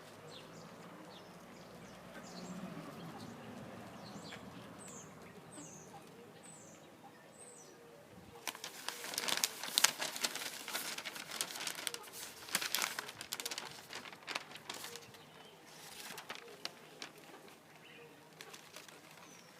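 A small bird chirps a few short high notes, then a gust of wind sets the hanging prints flapping and rattling for several seconds before it dies down.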